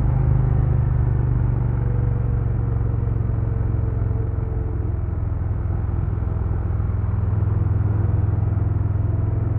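2022 Harley-Davidson Low Rider S's Milwaukee-Eight 117 V-twin running steadily, its pitch easing down a little over the first few seconds and then holding even.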